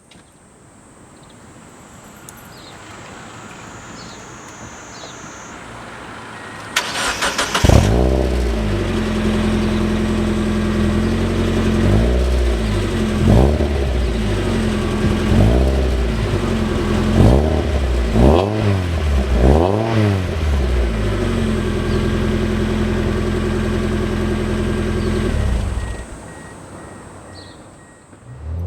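Mazda Roadster NB8C's 1.8-litre four-cylinder engine breathing through a MANZO stainless steel catback exhaust with its silencer insert fitted: the starter cranks about seven seconds in and the engine catches and idles. About six short throttle blips follow, then it idles again before being switched off near the end.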